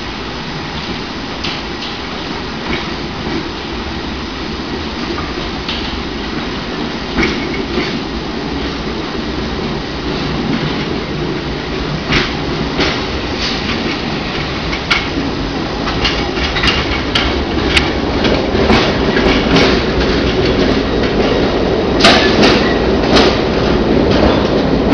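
London Underground A Stock electric train approaching and running into the platform. Its rumble grows steadily louder, with sharp wheel clicks over the rail joints coming more often as it nears, the loudest about 22 seconds in.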